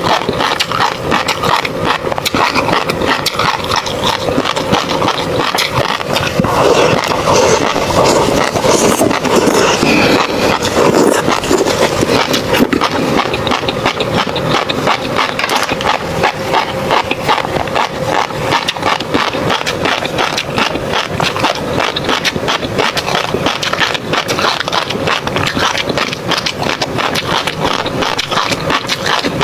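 Close-miked chewing of tobiko fish roe: a dense run of tiny pops and crackles as the eggs burst. The sound swells for several seconds about a quarter of the way in.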